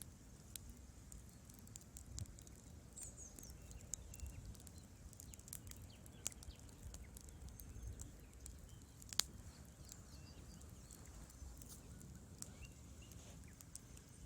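Wood fire crackling: irregular small snaps and pops from burning logs over a low rumble, with one louder pop about nine seconds in.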